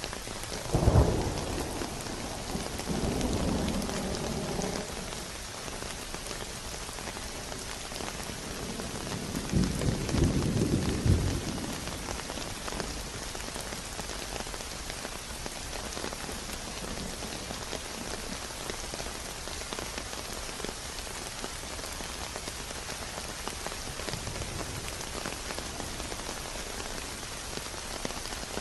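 Rain falling steadily, with thunder: a sudden clap about a second in that rolls on for a few seconds, a longer and louder rumble around ten seconds in, and a faint rumble near the end.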